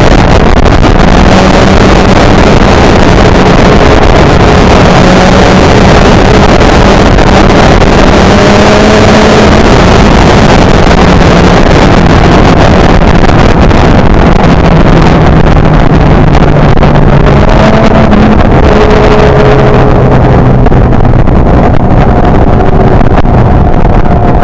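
Sport motorcycle engine running at speed under heavy wind noise on the mic, its pitch holding steady and then stepping to new levels several times as the bike changes speed.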